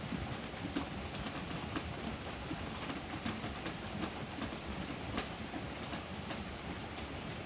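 Heavy rain falling steadily on the roof, heard from inside, with scattered sharper taps of single drops through it.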